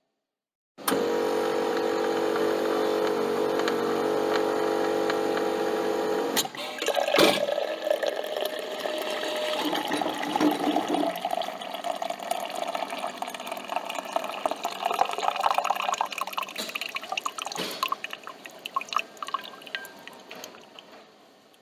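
Coffee machine brewing. Its pump starts with a steady hum that stops suddenly about six seconds in with a click. Liquid then gurgles and drips, fading near the end.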